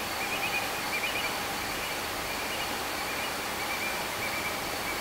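Night-time outdoor ambience: a steady hiss under a thin, steady high whine, with faint, irregular chirping throughout.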